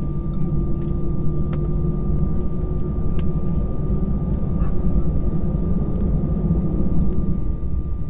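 Airliner cabin noise while taxiing after landing: a steady low rumble with a steady high engine whine, a lower hum that fades about halfway, and a few faint clicks.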